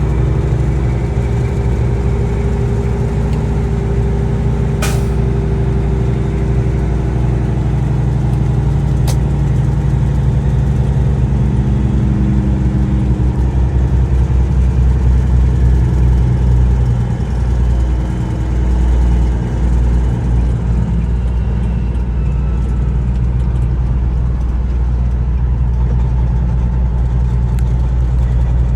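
Semi truck's diesel engine running steadily under way, its note shifting slowly and wavering for a few seconds about two-thirds of the way through. A single sharp click is heard about five seconds in.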